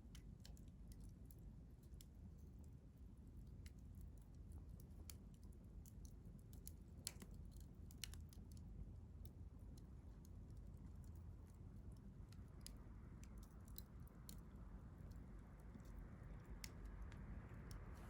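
Wood campfire crackling faintly, with sparse, irregular sharp pops and ticks over a low rumble. A soft hiss swells in from about two-thirds of the way through.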